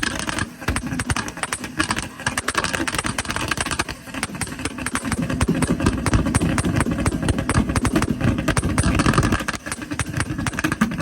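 Toyota Supra's engine revved hard on the limiter, its exhaust crackling and popping rapidly, with a few brief dips between revs. The pops are fuel igniting in a flame-throwing exhaust.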